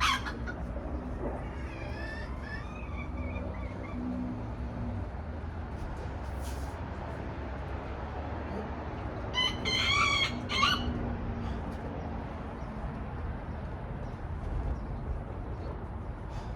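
A rooster crowing twice: a faint crow about a second in and a louder one about nine and a half seconds in, over a steady low background rumble.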